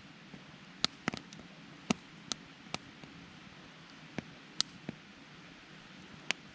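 Wood campfire crackling: about ten sharp, irregular pops over a soft, steady hiss.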